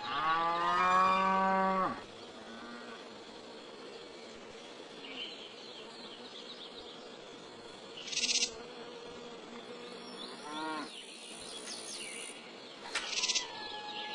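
A cow mooing once at the start, a single call of about two seconds. After it comes a quieter, steady buzzing background with a few brief animal calls and noises.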